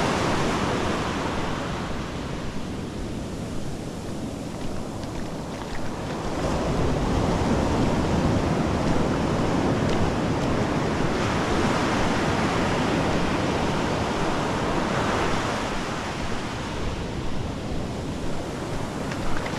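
Ocean surf breaking and washing up the beach, the noise of the waves swelling and falling back over several seconds, with wind rumbling on the microphone.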